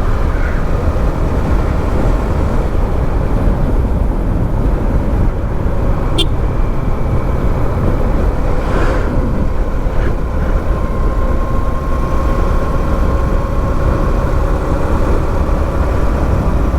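Motorcycle running steadily on the move, its engine tone faint under heavy wind rush on the microphone. There is a brief sharp click about six seconds in and a short swell of noise around nine seconds.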